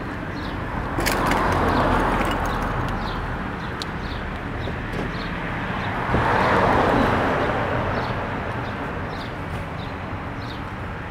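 Cold start of a 1999 Ford Explorer Sport's 4.0-litre SOHC V6, heard through a Dynomax bullet muffler with the stock resonator. The engine note rises about a second in and settles into a fast cold idle, then swells again about six seconds in before easing back.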